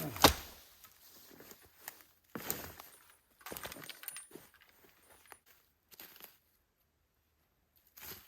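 A sharp knock near the start, then a few short, separate scraping or crunching sounds with quiet gaps between them.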